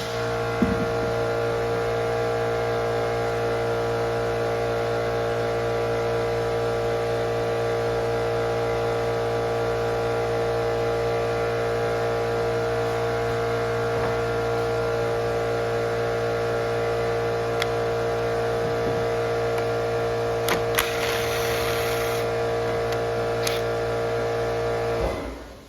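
Echo string trimmer's two-stroke engine running at a steady speed, with a few light clicks, then cutting off near the end.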